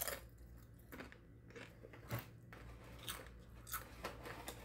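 A person biting into and chewing a crunchy tortilla chip, with a sharp crunch at the first bite and then crackly crunches about once a second.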